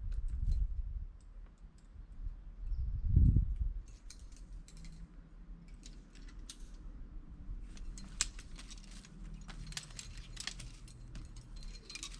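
Metal climbing gear, carabiners and quickdraws, clinking and jangling in quick irregular clicks that grow thick in the last few seconds, after a couple of low rumbles in the first four seconds.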